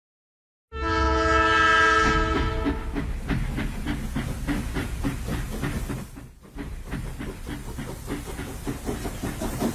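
A train horn sounding one steady chord for about two seconds, starting just under a second in, then a passing train's wheels clacking rapidly and regularly over the rail joints with a low rumble underneath.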